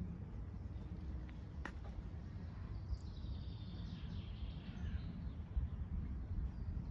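A bird chirping a few quick falling notes about three to five seconds in, over a steady low outdoor rumble, with one sharp click a little before two seconds.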